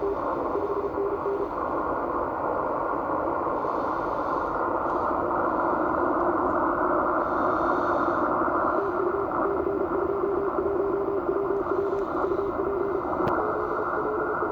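Morse code on the 18 MHz amateur band heard through an IC-7600 transceiver: a single steady beep tone keyed on and off in dots and dashes over a constant hiss of band noise. It keys for about the first second and a half, falls silent, and starts again about nine seconds in.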